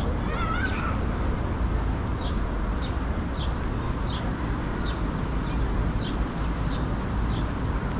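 A bird chirping repeatedly, with short, high, descending chirps about once a second over steady low street noise.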